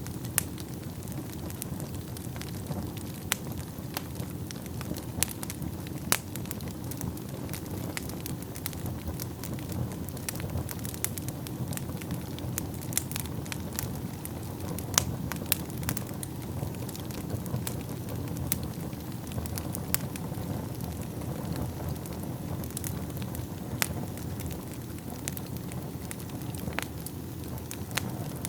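Wood fire in a fireplace burning with a steady low rush and frequent sharp, irregular crackles and pops.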